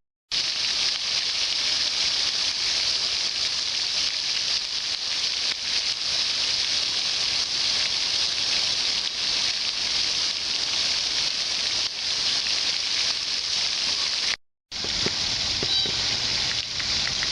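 Steady rushing water, a continuous hiss that breaks off for a moment about three quarters of the way through and resumes.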